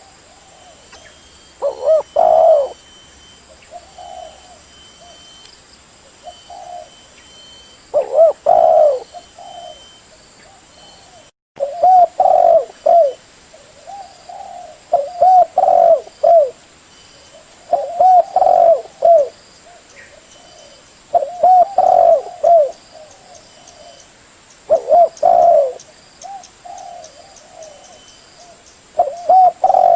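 Spotted dove cooing: loud phrases of several short coos repeated every few seconds, with softer coos in between. The calls are used to lure the doves.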